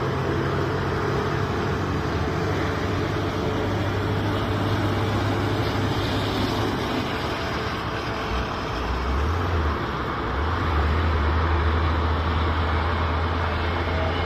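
Steady road-traffic rumble, with a low vehicle engine hum that drops and changes about eight to ten seconds in.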